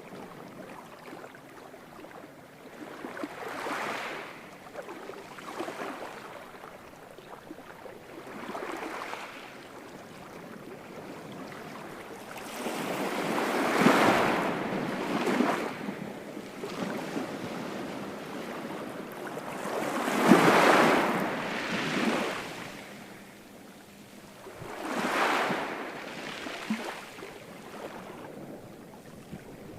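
Ocean waves breaking and washing ashore, each wave a swell of rushing surf over a steady background wash, the biggest breaking about a third and two thirds of the way through.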